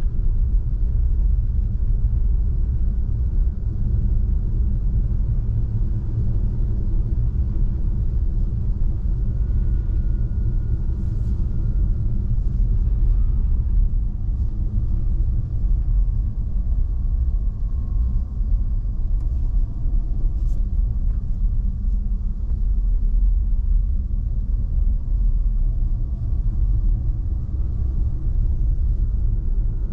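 Tesla Model 3 driving on a snow-covered road: a steady low rumble of tyre and road noise, with no engine sound.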